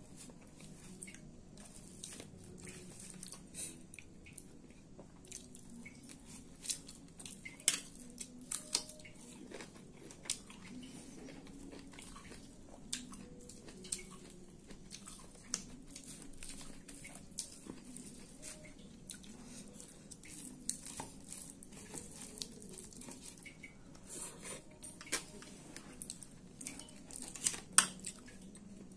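Close-up eating sounds: a person chewing mouthfuls of khichdi eaten by hand, with irregular sharp clicks and the wet squish of fingers mixing rice on a steel plate.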